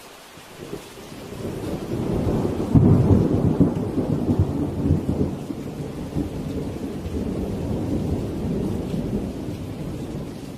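Steady rain with a long roll of thunder: the rumble builds over the first couple of seconds, peaks with a sharp crack about three seconds in, then rolls on and slowly fades.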